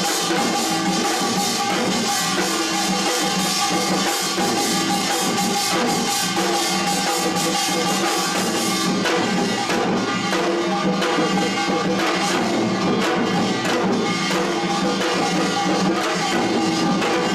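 Korean pungmul percussion ensemble playing: a dense, continuous run of drum and metal percussion strikes over steady held pitched tones.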